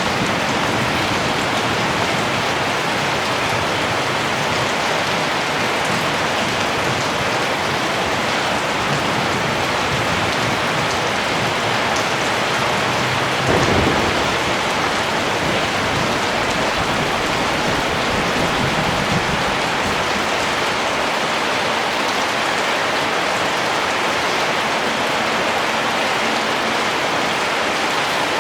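Steady, even rain falling. About halfway through there is a brief low rumble.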